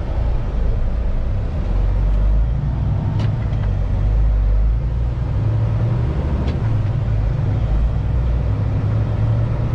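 Heavy diesel semi truck's engine running with a steady low rumble, heard from the cab while driving, with a couple of faint clicks.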